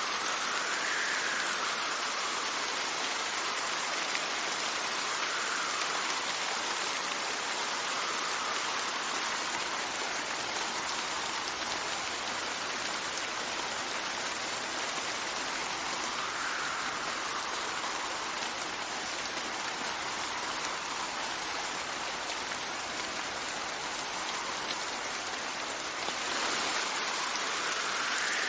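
Steady rain falling, with gusts of wind that swell and fade every few seconds. The rain grows louder near the end.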